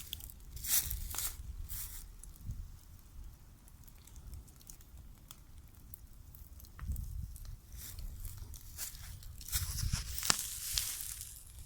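Bonfire crackling, with scattered sharp snaps and pops over a low rumble; the pops come thickest near the start and again near the end.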